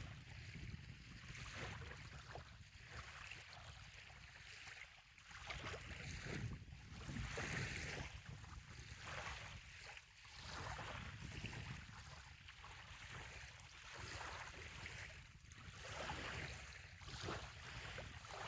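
Small waves lapping gently on a sandy bay shoreline, coming in irregular soft swells every second or two, over a low steady rumble.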